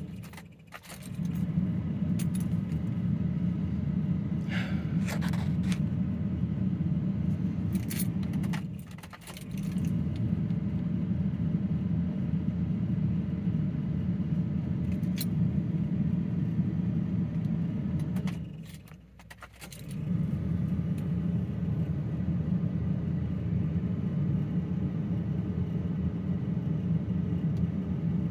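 Ford F-350's engine being cranked over by the starter without firing, in three long cranks of about eight seconds each with short pauses between: a truck that won't start even though it has fuel.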